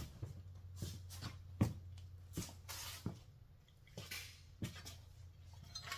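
Footsteps and light knocks, a dozen or so irregular strokes, while a heavy bumper guard is carried across the garage, over a steady low hum.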